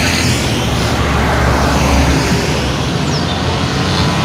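Fuel tanker truck's diesel engine running as the truck turns and drives past: a loud, deep rumble over a noisy hiss, heaviest about one to two seconds in.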